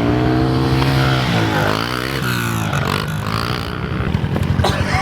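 Pit bike engine running steadily, then its pitch rises and falls about two seconds in as it is revved or rides past.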